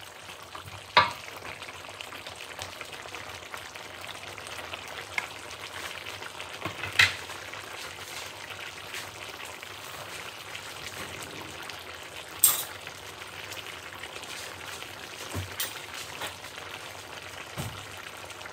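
Chicken and vegetables in broth sizzling steadily in a metal wok, stirred with wooden spatulas at first. About five short sharp knocks sound through it, the loudest about a second in, around seven seconds in and around twelve seconds in.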